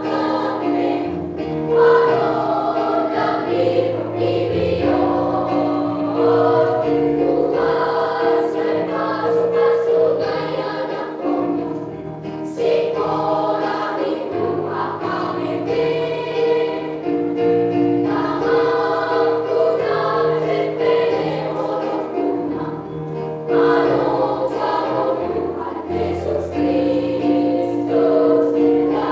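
Children's church choir singing a song, sustained notes moving together over a lower bass line, without a break.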